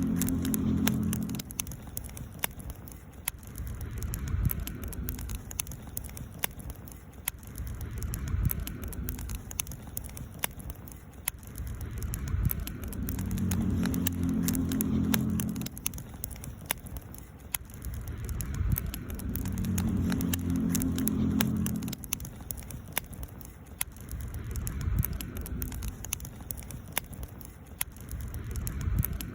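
Wood fire crackling, with many sharp pops and snaps. Under it runs a low rumbling hum that swells and fades every few seconds.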